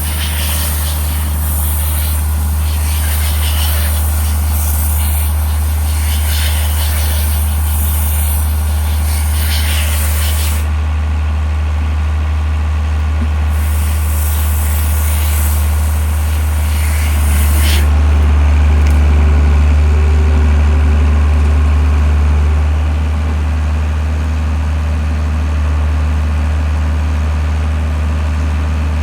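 John Deere tractor engine running steadily, with a high hiss over it that stops and starts again. The engine gets louder for a few seconds about two-thirds of the way through.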